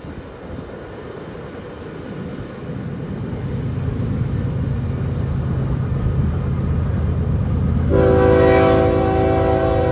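Freight train's diesel locomotive approaching, its low engine rumble growing louder, then the locomotive's air horn sounding one long blast about eight seconds in, a chord of several steady tones held to the end.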